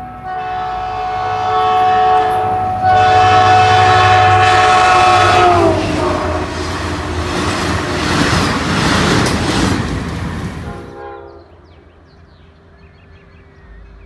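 Caltrain commuter train sounding its horn in long blasts as it approaches, the horn's pitch dropping as it passes about six seconds in, followed by the loud rush and clatter of the bilevel passenger cars going by. Near the end the sound falls off sharply to a much quieter background.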